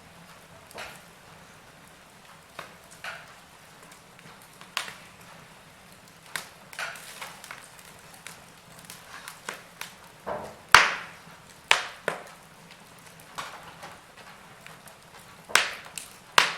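Wood fire in a fireplace crackling: irregular sharp pops and snaps over a faint steady hiss, with the loudest crack about two-thirds of the way through.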